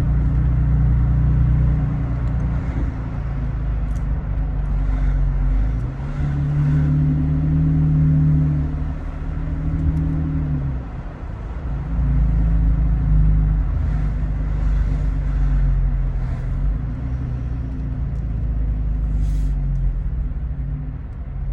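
A 2019 Toyota Tacoma TRD Pro's V6 running through an MBRP 3-inch cat-back exhaust while driving, a steady low drone. The engine note climbs a little about six seconds in and drops back about eleven seconds in.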